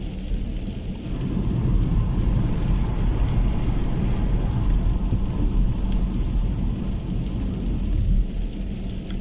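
Rain falling, under a low rumble that swells about a second in and eases near the end.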